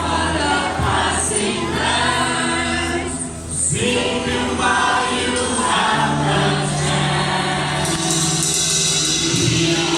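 Choir singing a Christian worship song, backed by instruments holding sustained low bass notes.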